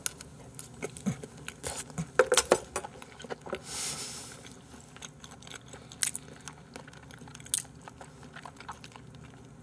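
A person chewing a mouthful of raw salmon close to the microphone: wet mouth clicks and smacks, densest in the first few seconds and sparser later, with a short breathy hiss about four seconds in.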